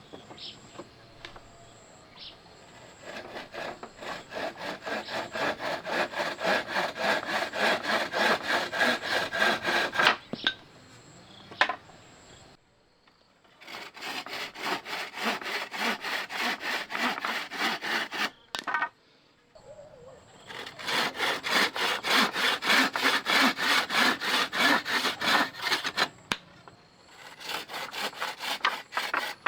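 Hand saw cutting through wood in steady back-and-forth strokes, about three a second, in several bouts with short pauses between them.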